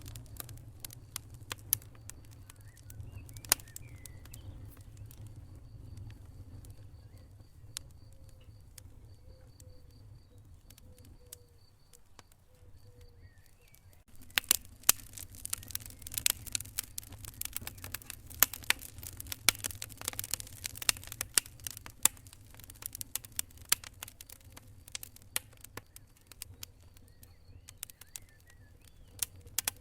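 Wood fire crackling in a fireplace, irregular sharp pops and snaps, sparse at first and much busier from about halfway through, over a steady low rumble.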